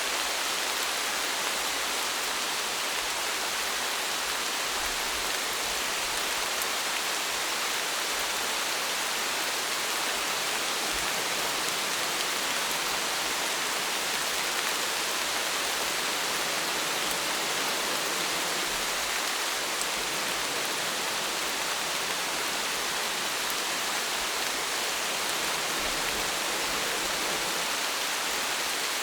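Steady rainfall, an even hiss of rain with scattered raindrop ticks.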